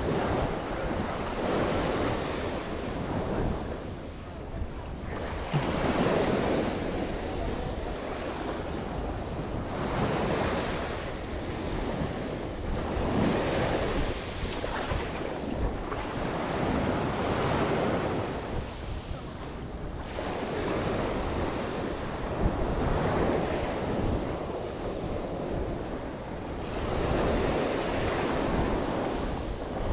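Sea waves breaking and washing up on the shore, the surf swelling and ebbing every few seconds, with wind buffeting the microphone.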